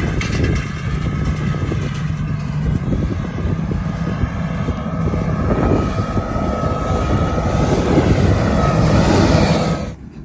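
Farm machinery engine running steadily under load, with a faint whine joining in about six seconds in; it grows a little louder and then cuts off suddenly near the end.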